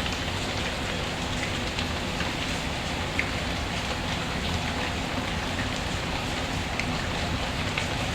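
Steady rain, mixed with scattered small sharp crackles of a wood fire in a fireplace; one crackle about three seconds in is the loudest.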